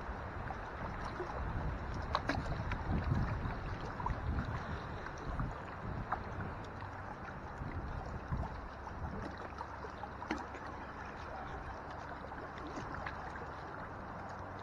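Strong wind rumbling in gusts on the microphone over water lapping against a small boat, with a few light clicks.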